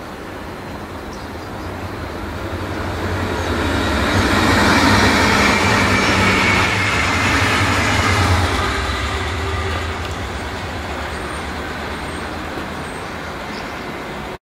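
Red Deutsche Bahn electric multiple unit passing on the tracks: wheels rolling on the rails with a low hum, growing louder to a peak about four to eight seconds in, then fading away.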